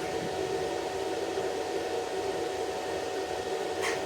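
A steady motor hum with a constant hiss, holding level without a break.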